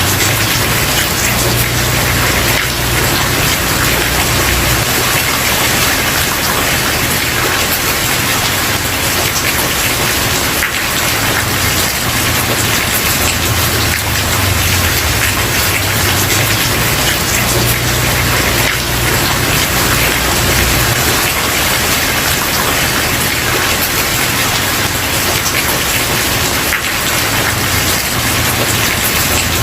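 Steady rain falling on a wooden porch, an even dense hiss of drops with a low rumble underneath that swells and fades.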